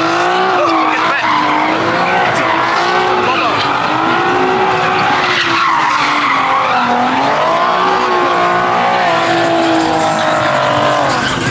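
Car tires squealing without a break as a car spins its wheels, the pitch wavering up and down; the squeal stops near the end.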